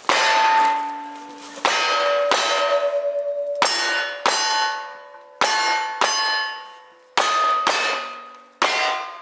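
Ten gunshots at a steady pace, each ringing a steel target plate that hums on at its own pitch and fades before the next shot.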